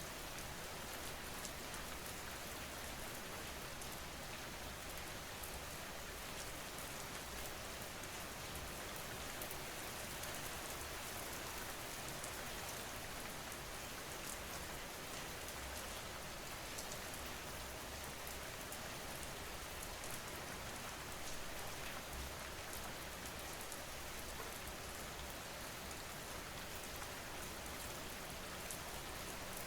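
Steady rain falling on a surface, a constant hiss with the fine patter of many drops, as a sleep-sound backdrop.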